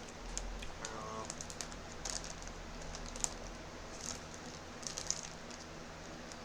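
Crunchy chewing of salad close to the microphone: irregular crisp clicks and crackles, over the steady hum of an electric fan.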